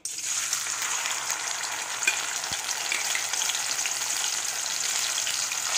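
Marinated ivy gourd slices hitting hot coconut oil in a stainless steel wok and frying with a steady, even sizzle that starts abruptly as they drop in.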